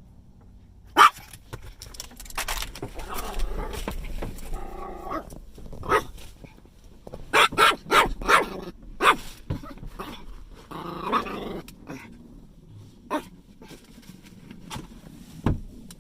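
A dog barking and growling over and over: one sharp bark about a second in, stretches of growling, a quick run of barks in the middle, then scattered single barks.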